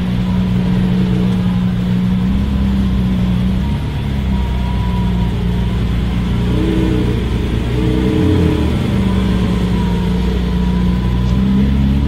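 A car engine running with a steady low drone, its pitch shifting up and down a couple of times as it is revved.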